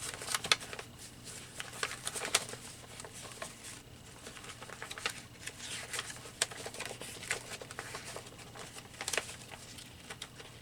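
Paper rustling and crinkling in irregular short bursts, with light taps, as loose paper cutouts are handled and sorted through.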